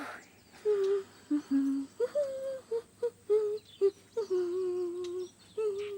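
A person humming a simple tune without words: a string of short and held notes stepping up and down, with one long wavering note past the middle.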